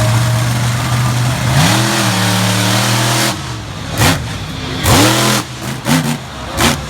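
Monster truck engines running at a steady idle, then revved: the pitch climbs about a second and a half in, and in the second half comes a string of sharp throttle blips, about one a second, each rising and falling quickly.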